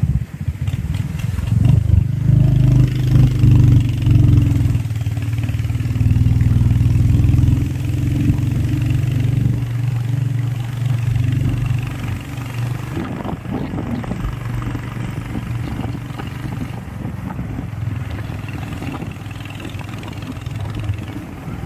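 Royal Enfield Hunter 350's single-cylinder engine and exhaust while riding, running hard and loud for the first several seconds, then settling to a lower, steadier note through the second half.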